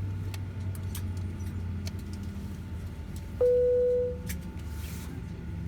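Boeing 737 cabin chime sounding once, a single clear tone that fades over about a second, near the middle. Underneath runs the steady low hum of the aircraft cabin, with scattered clicks and jingles of passengers moving about.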